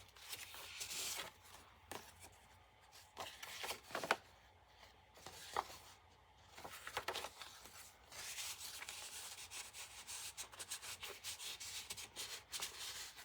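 Paper rustling and sliding, with small clicks and taps, as journal pages and loose book pages are handled and pulled from a pocket; a longer stretch of steady rustling comes in the second half.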